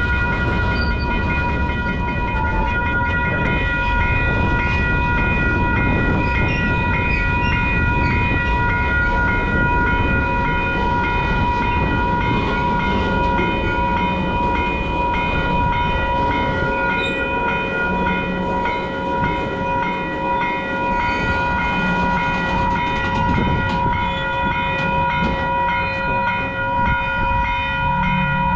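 Freight train rolling past, a steady heavy rumble of wheels and cars, with a grade-crossing bell ringing over it as steady high tones with a regular ding, about two strikes a second.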